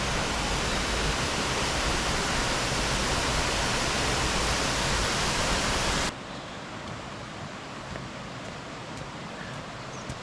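Goit Stock Waterfall rushing: a loud, steady roar of falling water that drops suddenly to a quieter water rush about six seconds in.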